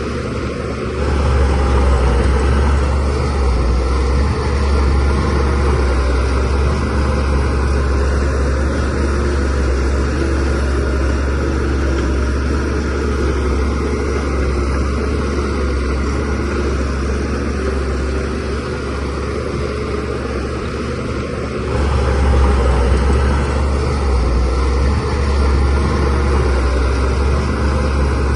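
DH17C3 bulldozer's diesel engine running under load with a steady low drone, swelling louder about a second in and again near the end as it works harder pushing soil.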